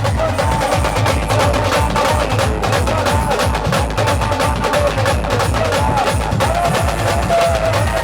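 Live band music: a heavy, steady drum beat under a melody line that slides and bends in pitch.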